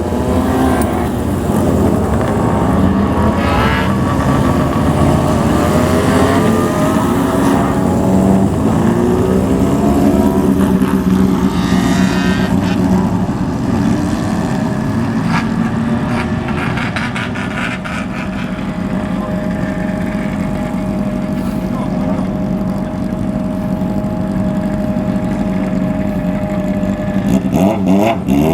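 Motorcycle engines revving as bikes ride off one after another, the exhaust note climbing in pitch several times in the first half, then settling to a steadier engine tone from about two-thirds of the way through.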